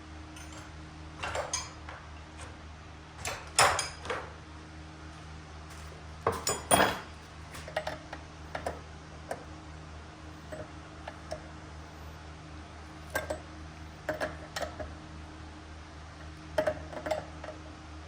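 Metal fuel fittings and kit parts clinking and knocking as they are handled and set down, in irregular small clusters, loudest about three and a half and six and a half seconds in. A steady low hum runs underneath.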